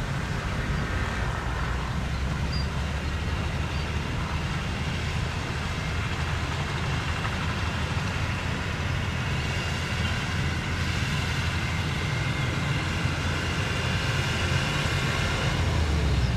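Jet airliner engines running with a steady rumble and a faint high whine, growing slightly louder near the end.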